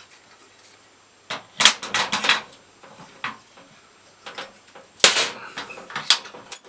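A series of sharp knocks and clatters, loudest about five seconds in, with a brief high chirp near the end.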